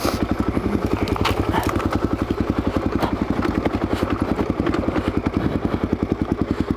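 Suzuki DR-Z400SM's single-cylinder four-stroke engine running at low, steady revs, its exhaust pulsing evenly, with a few light knocks over it.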